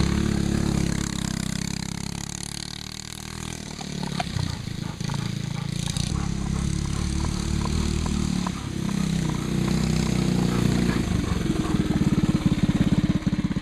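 Go-kart's Briggs & Stratton Animal single-cylinder engine running. It drops off for a second or so about two seconds in, with some clattering around four to five seconds, then picks up again and is loudest near the end.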